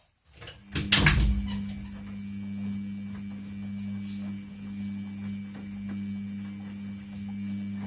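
Washing machine starting up: a brief loud rush about a second in, then a steady motor hum.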